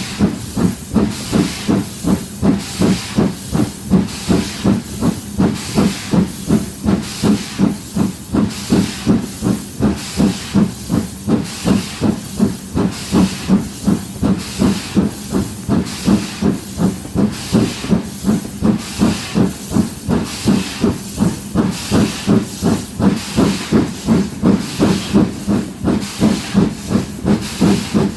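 Four-cylinder GWR Castle class 4-6-0 steam locomotive No. 4079 Pendennis Castle working up a gradient under load, its exhaust beating evenly at about three beats a second over a steady hiss of steam.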